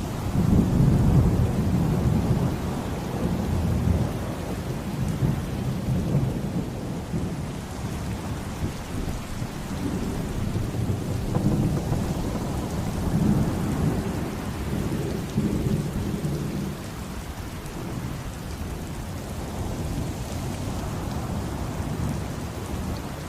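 Rolling thunder rumbling over steady rain. The rumble swells loudest in the first few seconds and again through the middle, then eases off toward the end.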